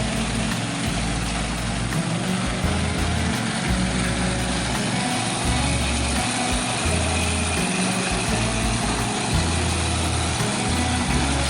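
Riding lawn mower engine running steadily while mowing, with background music and a stepping bass line playing over it.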